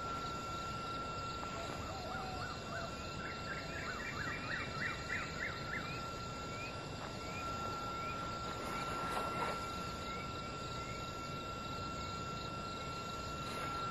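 A bird singing a quick run of repeated chirps for a few seconds, over a steady high-pitched tone and constant outdoor hiss. A brief rushing noise comes about nine seconds in.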